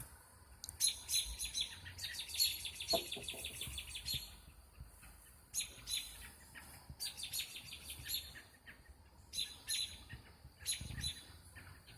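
Birds chirping after dark: runs of rapid, high chirps repeated in quick series, broken by short pauses.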